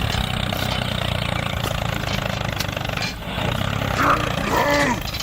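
A small motor runs with a steady low hum, and a short high-pitched call that rises and falls sounds about four seconds in.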